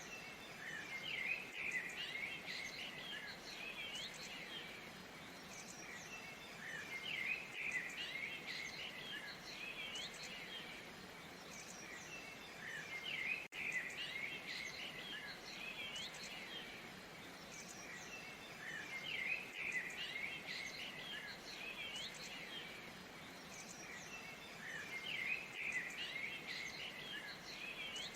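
Small birds chirping and calling in recurring clusters every few seconds, over the steady even rush of a waterfall.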